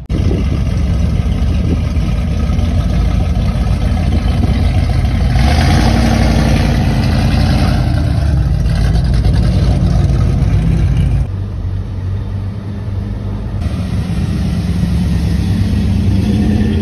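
Car engines running and revving as classic cars drive off, in several short back-to-back clips. The sound drops abruptly about 11 seconds in and rises again a couple of seconds later.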